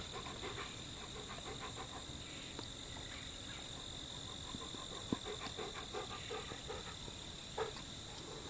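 Steady chorus of insects, two even high-pitched drones that do not let up, with scattered faint ticks and rustles and one sharper click about five seconds in.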